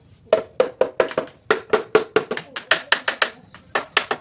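Rapid hammer or mallet blows on wood, about four to five a second, each a sharp knock with a short ring.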